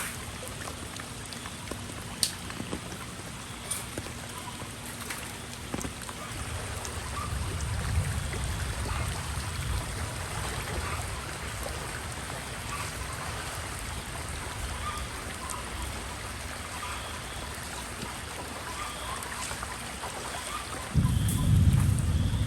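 Steady rain falling, with a few sharp drips or taps early on. A low rumble swells about seven seconds in and again, louder, near the end.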